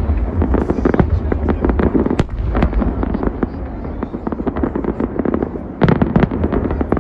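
Large fireworks display: a dense, continuous barrage of shell bursts and crackling over a low rumble, with a fresh cluster of loud bangs about six seconds in.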